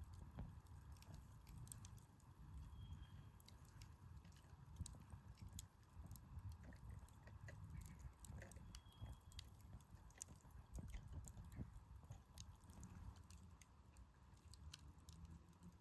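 Wood fire burning in a campfire stand, crackling quietly with irregular small pops and snaps over a low rumble.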